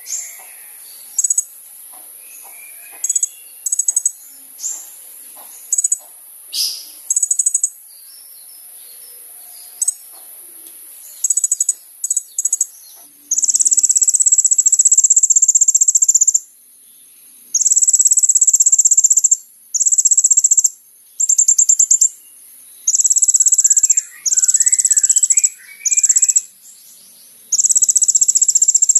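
Kolibri ninja sunbird singing: thin, high chirps and short notes, then from about halfway a run of loud, high, buzzy trills, each lasting one to three seconds, over a steady high hiss.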